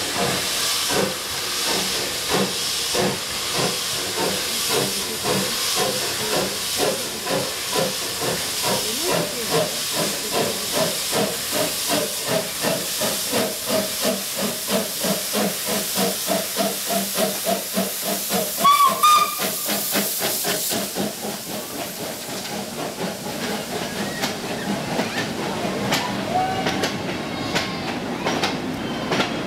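Steam locomotive pulling away, its exhaust chuffing in beats that quicken as it gathers speed, with steam hissing and a short whistle blast about two-thirds of the way through. The chuffs then fade into the steady rolling of the passing carriages.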